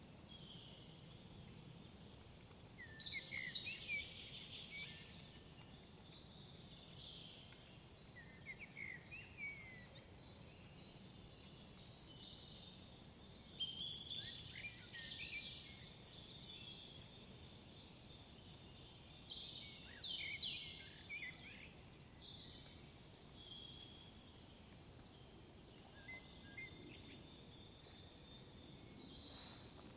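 Forest songbirds singing. One bird repeats a short song phrase about every five to six seconds, and fainter bird calls fill the gaps between phrases.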